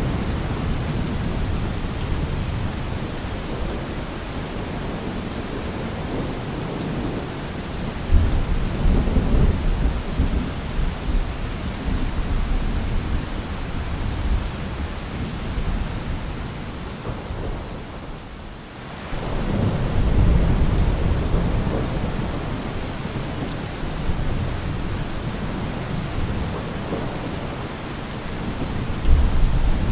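Steady heavy rain with low thunder rumbling several times: about eight seconds in, again around twenty seconds in and once more near the end. The whole storm sound briefly drops away a little after halfway.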